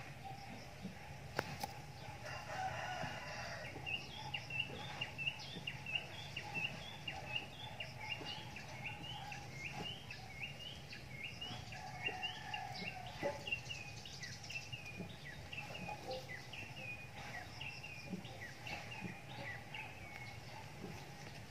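A bird calling in a long run of short chirps, each rising then levelling off, about two a second, starting a few seconds in.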